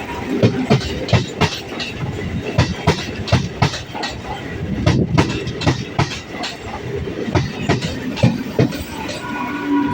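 ICF MEMU electric train passing at speed over a bridge, its wheels clattering over the rail joints in a fast, irregular run of sharp clicks and knocks.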